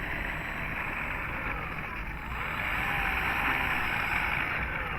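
Electric motor and propeller of a Dynam Cub RC plane whining faintly over a steady hiss, its pitch sliding down and up a few times in the middle as the throttle changes.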